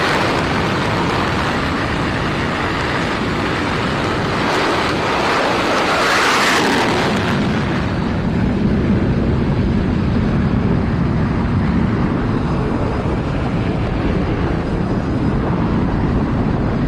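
Strong cyclone wind buffeting the microphone, with an Airbus A320's jet engines rumbling underneath. The sound swells about six seconds in, then settles into a steady low engine rumble: the go-around climb-out.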